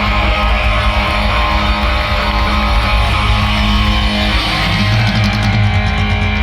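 Punk rock band playing live: loud distorted electric guitars and bass holding a ringing chord. From about five seconds in, a quick run of drum and cymbal hits comes in.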